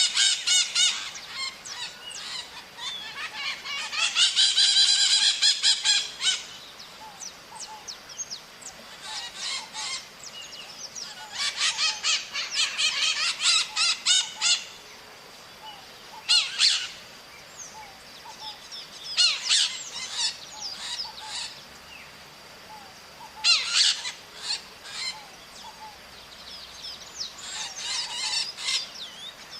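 Maritacas (small Brazilian parrots) calling in repeated bouts of rapid, harsh, screechy notes, several birds overlapping at times, with short pauses between the bouts.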